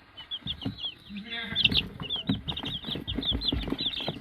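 Young chicks peeping, with many short high chirps several times a second and rising in number after the first second. Light taps and rustling come with them as the chicks peck at fingernails.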